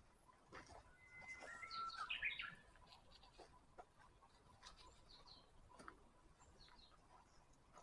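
Wild songbirds calling faintly: two held whistled notes and a quick burst of chirps about a second or two in, then scattered brief chirps and light clicks.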